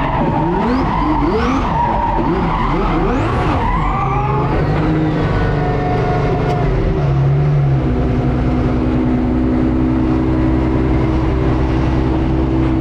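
Twin-turbo Ferrari F12's V12 engine revving hard with tyre squeal as the car slides, then settling to a steady, even engine note about six seconds in.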